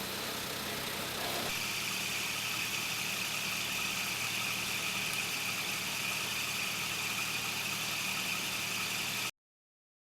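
An engine idling steadily. The sound changes slightly about a second and a half in, then cuts off abruptly a little after nine seconds.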